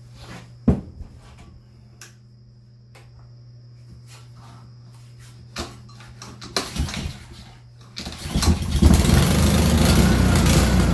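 A few clicks and handling knocks, then about eight seconds in a Honda 190 pressure-washer engine starts quickly on old gas and runs steadily and loudly.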